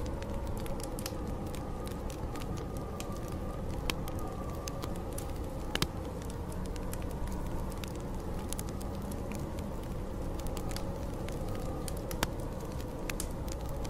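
Wood fire crackling, with many small snaps and a few louder pops, over a steady, slowly wavering howl of snowstorm wind.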